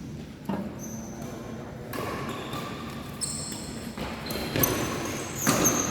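Badminton play in a sports hall: several sharp racket strikes on the shuttlecock, mixed with short high-pitched squeaks of shoes on the court floor.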